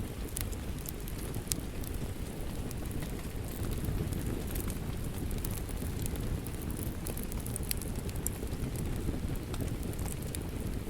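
Steady rain with a low rumbling wash, mixed with a wood fire crackling in sharp, scattered pops.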